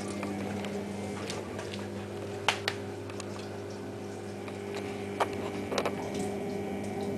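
Steady electrical hum from the washing machine, with a few sharp clicks and knocks about two and a half seconds in and again around five to six seconds in.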